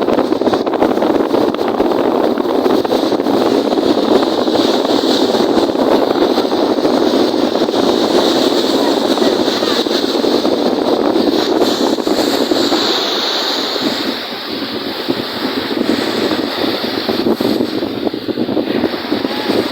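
Strong wind buffeting the microphone over the sound of waves on a lake, a steady rushing noise that eases briefly about two-thirds of the way through.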